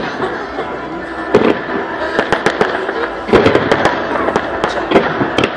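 Fireworks display going off: a run of sharp cracks and bangs with crackling between them, becoming denser and louder about three seconds in.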